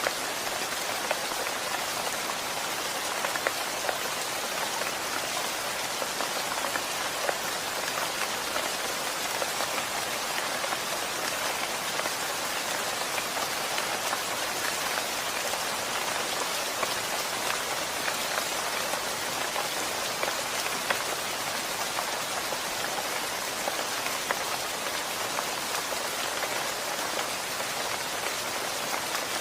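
Steady rain falling, an even hiss with many individual drops ticking on a hard surface close by, holding the same level throughout.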